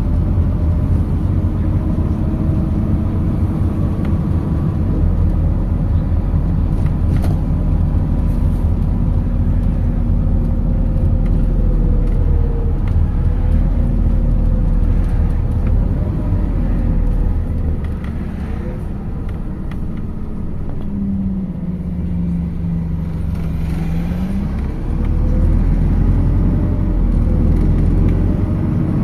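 MAZ 206 city bus heard from inside the passenger cabin while it is moving: a steady low engine and drivetrain rumble with whines that rise and fall in pitch. About two-thirds of the way through it goes quieter for several seconds, with a steady hum, before the rumble picks up again.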